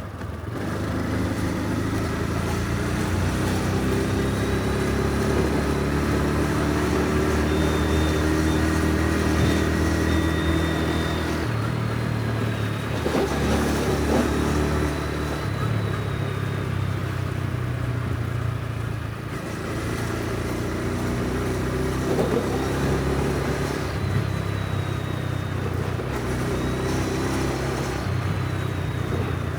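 Honda Super Cub C125's single-cylinder four-stroke engine running while the bike is ridden, its note changing pitch a few times as the speed changes.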